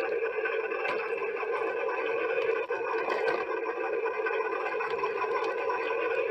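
A steady buzzing drone of a small electric motor and gears, holding one pitch throughout, with a few faint clicks.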